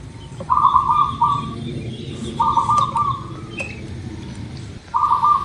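Zebra dove (perkutut) cooing: three short, broken coo phrases, each about a second long and about two seconds apart, with faint chirps of other birds behind.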